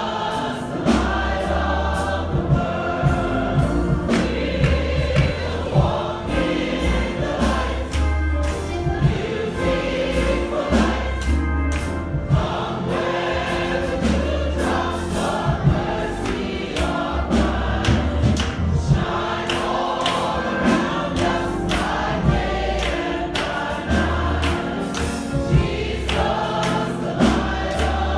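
A church congregation singing a gospel song together, many voices at once, over a low bass line and a steady beat of sharp strokes.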